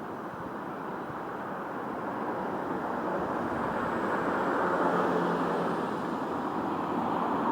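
Bus running along the road, heard from on board: a steady rumble of engine and road noise that grows louder over the first few seconds as it picks up speed.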